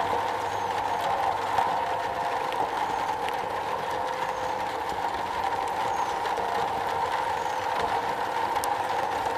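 Rain falling steadily on a metal roof: a dense, even hiss with small drop ticks scattered through it.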